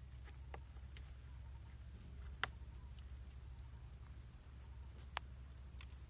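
Faint high bird chirps come and go over a steady low hum, with a few short sharp clicks; the loudest click falls about two and a half seconds in.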